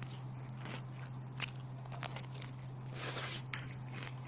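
A person eating crunchy food close to the microphone: scattered small crunches and chewing, with a louder crunchy bite about three seconds in, over a steady low hum.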